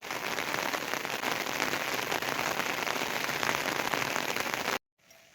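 Heavy rain falling on a surface: a dense, steady patter of many drops. It starts abruptly and cuts off suddenly near the end.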